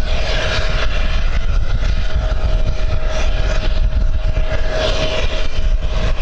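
Airliner engines running with a steady whine, over heavy wind rumble on the microphone.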